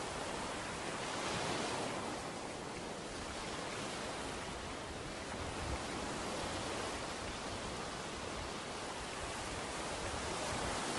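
Ocean waves washing onto a beach: a steady rush of surf that swells a little a second or two in.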